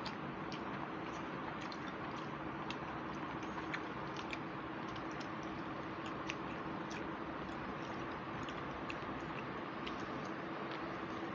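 Chewing and mouth sounds of people eating by hand: scattered small wet clicks and smacks over a steady background hiss and low hum.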